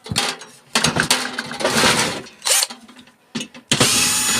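Metal parts of a microwave being handled and pulled apart: irregular rattling clicks and scrapes, a single knock, then a short harsh scrape near the end.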